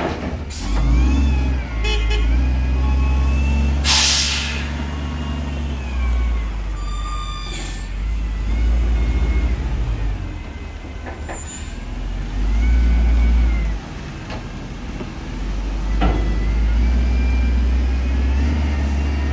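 Heavy diesel engines of a wheel loader and dump truck, revving up and dropping back repeatedly as they work. A short, sharp air-brake hiss comes about four seconds in, and a brief beep about seven seconds in.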